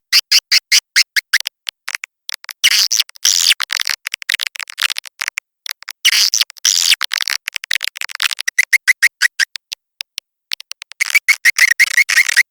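Swiftlet lure recording: rapid trains of high chirps and clicks with denser twittering runs and brief gaps, a call loop played to draw edible-nest swiftlets to nest.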